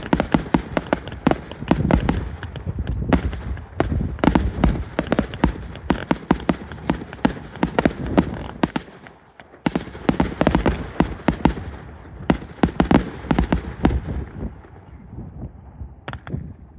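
Fireworks display: a dense run of rapid bangs and crackles. There is a short lull about nine seconds in, then another volley that thins out near the end.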